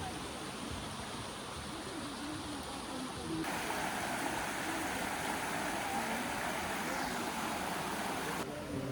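Running water of a stream, a steady rushing. It gets louder about a third of the way in and drops back shortly before the end.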